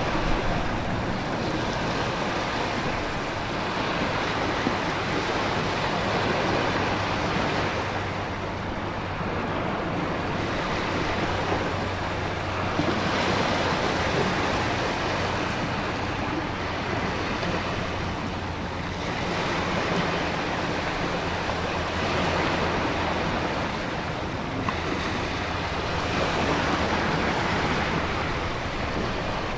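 Stormy sea ambience: ocean waves surging and breaking in swells every few seconds, over continuous wind and heavy rain noise.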